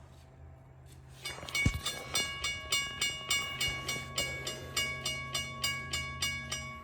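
Railroad crossing signal bell starting to ring about a second in, switched on remotely through a Wi-Fi smart plug, striking steadily about four times a second.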